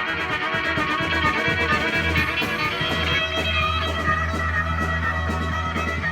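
Rock band playing live: electric guitar over a held low bass note, with drums keeping a steady beat of cymbal strokes.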